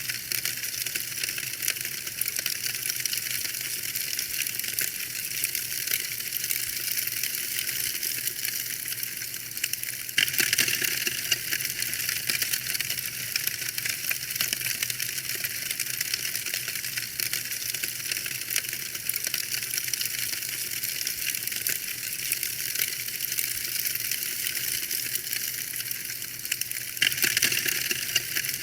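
Wood fire crackling in a fireplace: a dense, steady stream of small pops and snaps, thin and bright with little low end, with a short louder flurry about ten seconds in and another near the end.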